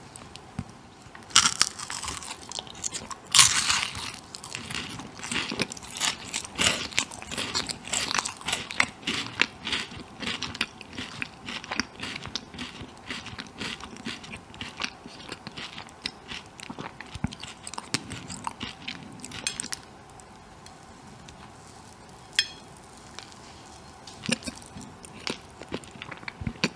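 Close-up ASMR eating: biting into and crunchily chewing a sponge cake topped with hazelnut chocolate pralines, with dense crackling crunches. The chewing thins out to occasional mouth clicks in the last several seconds.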